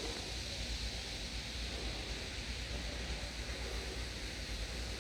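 Steady fizzing hiss of a freshly poured carbonated drink settling in a glass beer mug.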